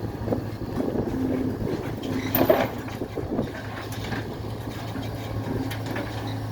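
Mini excavator's diesel engine running steadily, with a higher whine coming and going as the machine works and a sharp metallic clank about two and a half seconds in.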